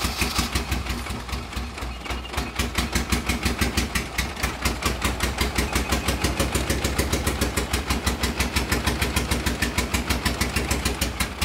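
Honda K24 four-cylinder engine being cranked over on the starter, an even rhythmic chugging of about seven pulses a second, without catching and running: the engine is starved of fuel.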